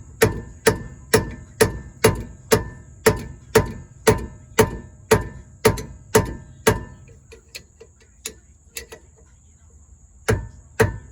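Hammer blows on metal, evenly paced at about two a second, each with a short metallic ring. They stop about seven seconds in, followed by a few light taps and then two more hard blows near the end.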